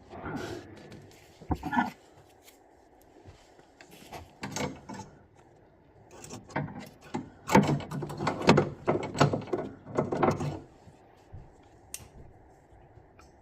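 Irregular clicks, knocks and rattles of hand tools and metal and plastic boiler parts being handled, as a Vaillant boiler's plate heat exchanger is worked on to fit a new O-ring. The clatter is sparse at first and gets busiest and loudest in the second half.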